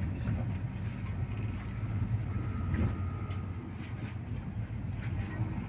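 Cabin noise inside a MAZ-215 articulated city bus: a steady low diesel engine hum with a general rumble and rattle of the body.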